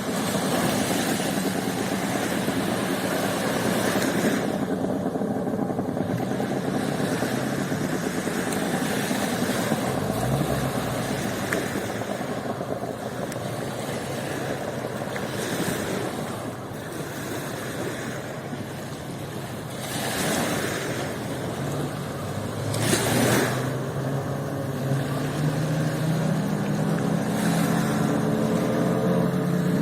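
Waves washing up on a sandy beach, with several louder surges. An engine runs steadily underneath, and its pitch rises slowly over the last several seconds.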